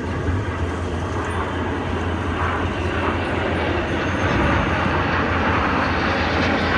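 Jet engines of BAE Hawk display jets flying by in formation: a steady rushing roar with deep rumble that grows a little louder over the first few seconds and then holds.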